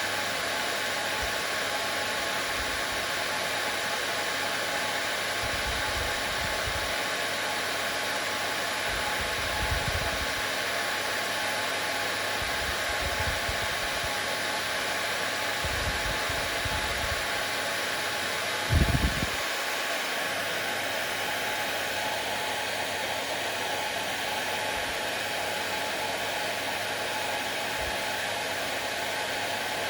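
Hair dryer blowing steadily, an even airy hiss that does not change. A few soft low thumps sound underneath it, the loudest one about two-thirds of the way through.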